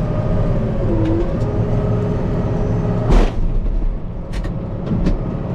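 Kubota M5-091 tractor's diesel engine running steadily, heard from inside the cab, with a short loud whoosh or thump about three seconds in and a few light clicks after it.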